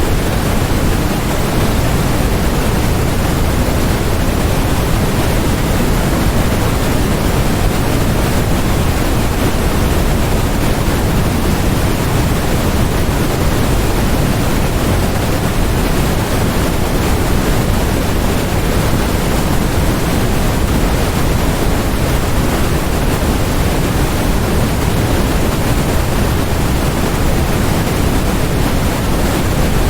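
Generated white noise: a steady, unchanging hiss spread across all pitches, heavier toward the low end.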